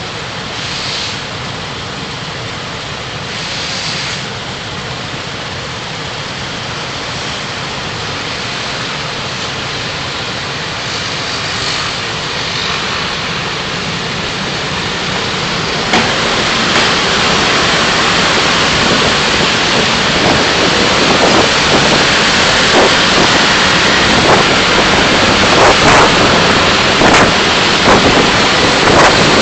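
Steady road and tyre noise heard from inside a moving car. It grows louder from about halfway through, and scattered sharp taps or knocks run through the second half.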